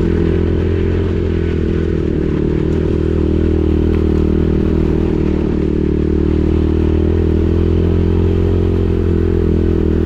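Pit bike's small single-cylinder engine running at a steady, even throttle, holding a near-constant engine note.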